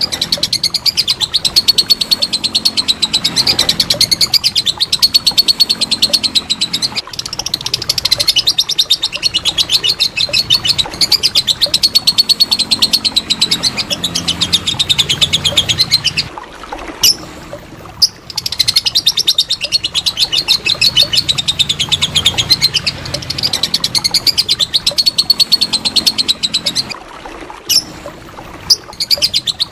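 Lovebird's long 'ngekek' song: a rapid, continuous chattering trill of many notes a second, in long bouts with short breaks about halfway through and near the end.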